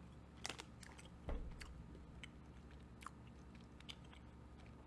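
A person chewing soft sour gummy candies, Sour Patch Kids Cherry, close to the microphone: faint, scattered mouth clicks, the loudest about a second in.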